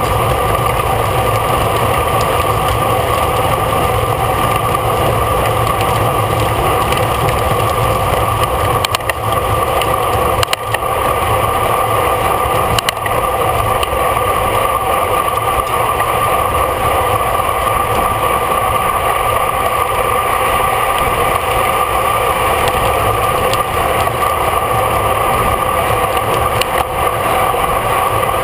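Wind and road noise on a bicycle racer's camera riding at race speed: a loud, steady rush with a constant whistle-like hum and a few small clicks around the middle.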